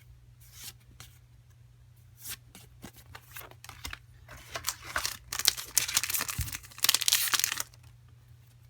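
A Pokemon card booster pack wrapper being torn open and crinkled by hand: a run of crackling rips that starts about halfway through, with the loudest parts near the end, then stops.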